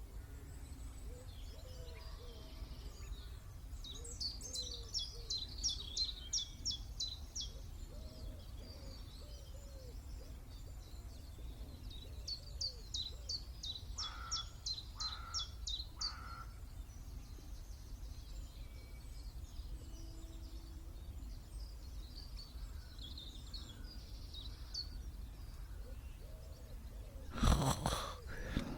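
Wild birds singing: two rapid trilled phrases of high notes, a few seconds apart, with three lower notes under the second, over a steady low rumble. A short loud rush of noise comes near the end.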